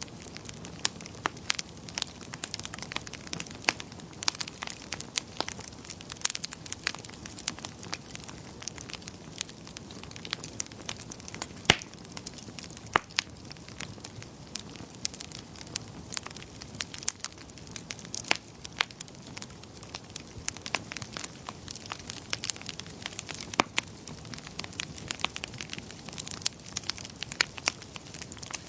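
Wood fire crackling in a fireplace: irregular sharp pops and snaps, several a second, some louder than others, over a steady low hiss of burning.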